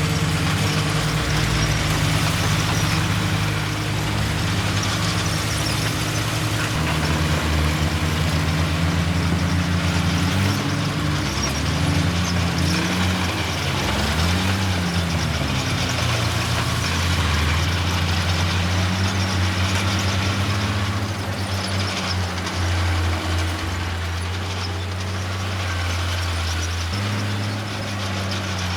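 Heavy diesel engines of a bulldozer and dump truck at work, running steadily, with engine speed rising and falling a few times around the middle and easing off after about 21 seconds.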